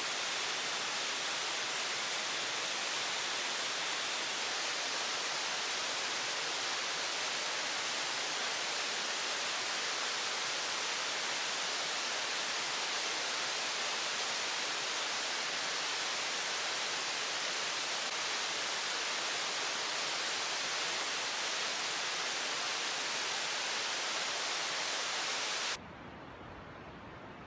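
Steady, even rush of water. Near the end it cuts off suddenly to a much quieter hiss.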